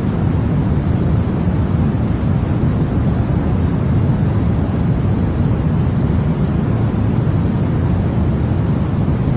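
Continuous white noise for baby sleep: a steady, even rushing hiss with no changes, its weight in the low, deep range.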